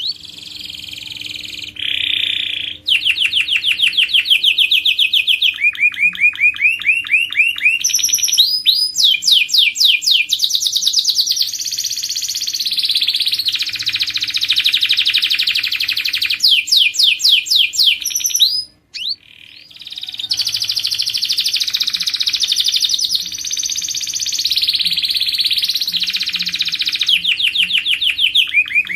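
Domestic canary singing a continuous song of rapid trills. Each phrase is a fast run of repeated notes, and the pitch and speed change from phrase to phrase. The song breaks off briefly about two-thirds of the way through, then resumes.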